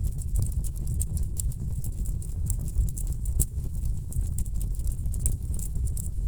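Wood fire burning in a fireplace: many sharp, irregular crackles and pops from the logs over a steady low rumble of the flames.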